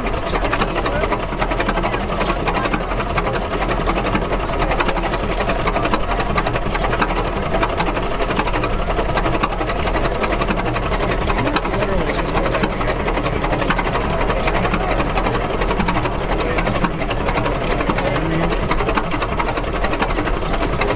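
Antique gas engine running with a steady, rapid mechanical clatter.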